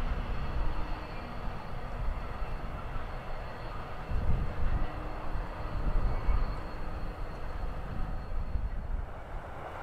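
A train running through the junction, a steady rumble with a faint whine, while gusts of wind buffet the microphone, hardest about four to six seconds in.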